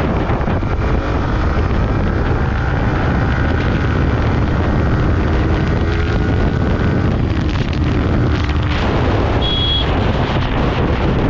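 Wind buffeting the microphone while riding a Yamaha R15M motorcycle at speed, with the engine and passing traffic running underneath. A short high beep sounds near the end.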